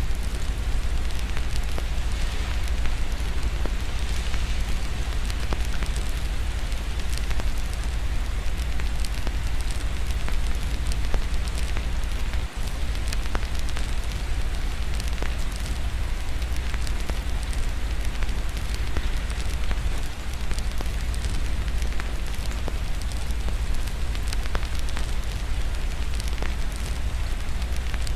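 Wood fire crackling with scattered sharp pops, over a steady hiss of rain and a constant deep low rumble.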